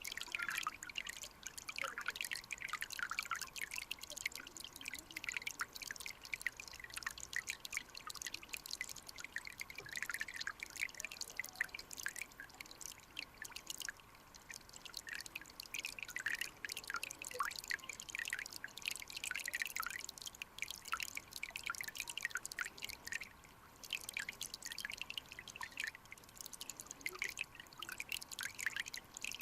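Mountain stream water bubbling and trickling: a dense, uneven run of small pops, drips and gurgles over a faint steady rush.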